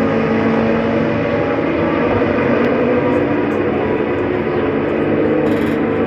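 GT race car engines running at a circuit, a loud continuous drone holding a steady pitch.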